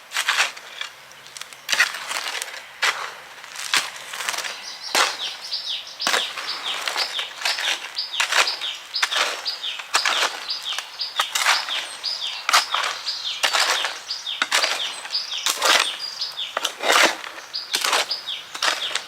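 Repeated scraping and chopping strokes of a hand tool working through a dry cement and sand mix, roughly one or two strokes a second. Behind it, from about five seconds in, runs a fast high chirping.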